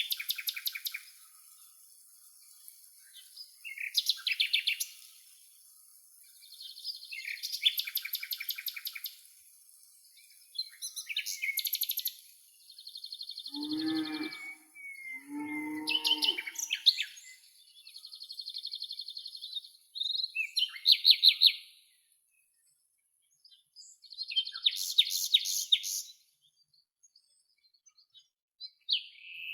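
Songbirds singing short, high trilled phrases that repeat every few seconds, with a faint steady hiss behind them. Near the middle, two lower, drawn-out animal calls of about a second each sound two seconds apart.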